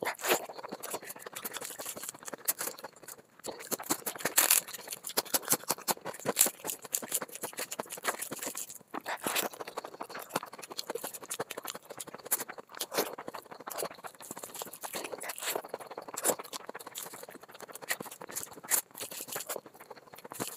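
Close-miked eating sounds: wet chewing and lip smacking as handfuls of rice are pushed into the mouth by hand. It is a dense run of small clicks and smacks, broken by short pauses twice.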